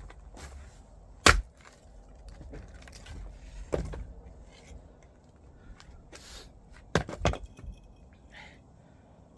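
Splitting firewood: sharp cracking strikes on a log. The loudest comes about a second in, another near four seconds and a quick pair near seven seconds, with wood shifting between them.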